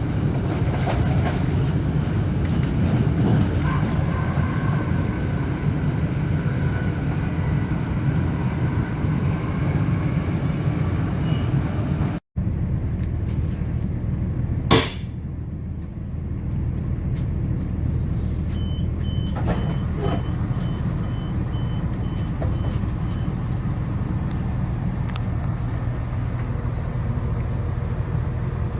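Steady low rumble of a train running along the track. The rumble cuts out briefly about 12 seconds in, a single sharp noise comes a few seconds later, and a run of short high beeps follows.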